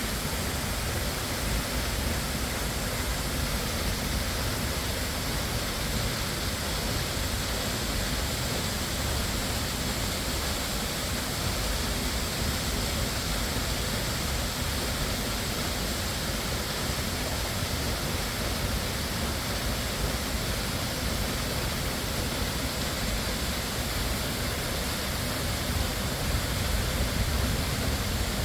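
Steady rushing of a waterfall, an even roar of falling water that swells slightly near the end.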